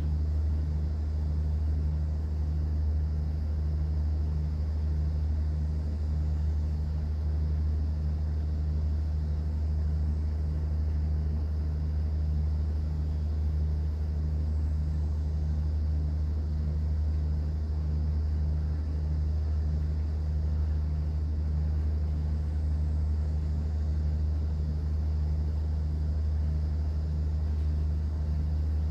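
Cruise boat's engine running steadily, heard on board: a low, even hum with a fast regular throb.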